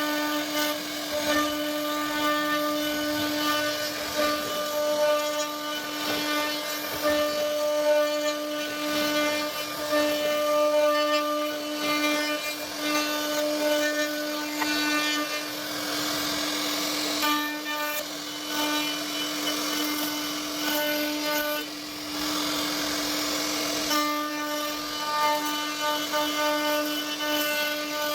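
CNC router spindle running with a steady high whine while the bit cuts wood, with a rasping cutting noise that rises and falls as it works.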